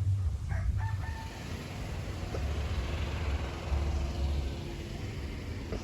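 A rooster crowing once, a long drawn-out call, over a steady low rumble.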